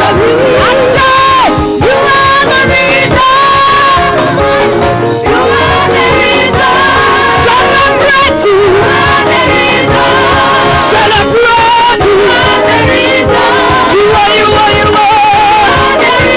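Live gospel worship music: a singer leading a praise song over a full band, with other voices joining in.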